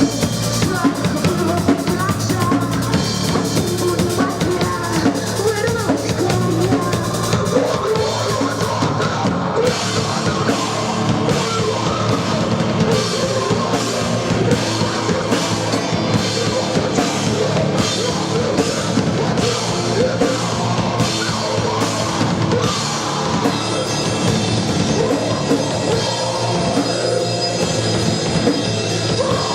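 Live rock band playing, the drum kit to the fore with bass drum and snare keeping a steady beat under the other instruments.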